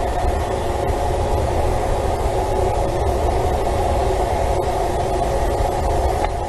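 Steady rumbling background noise with a low hum, unchanging throughout and with no distinct calls or knocks.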